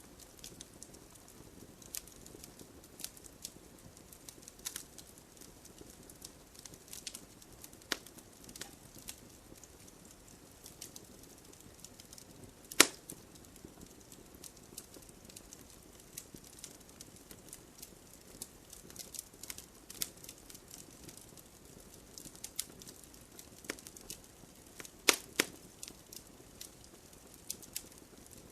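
Wood campfire crackling, with scattered small pops and snaps over a low steady hiss of the flames. A few pops stand out much louder, one about halfway through and two close together near the end.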